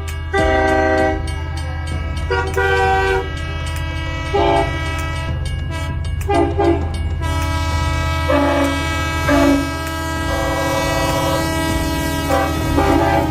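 Train horn sounding repeated short blasts, about seven in all, over a steady low rumble of a running train.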